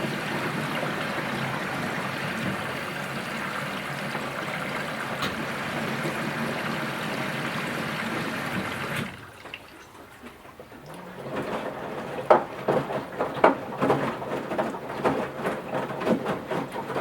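Washing machine mid-cycle: water runs in with a steady rush that cuts off suddenly about nine seconds in. After a short lull the drum starts turning again, with irregular sloshing and thumps of the wet laundry.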